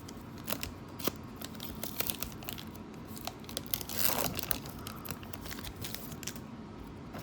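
Foil wrapper of a small three-card Pokémon trading card pack crinkling as it is handled and torn open, with a louder rip about four seconds in.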